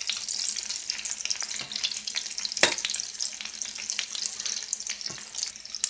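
Batter-coated cauliflower florets frying in shallow oil in a nonstick pan, sizzling and crackling steadily, with one sharp click about halfway through.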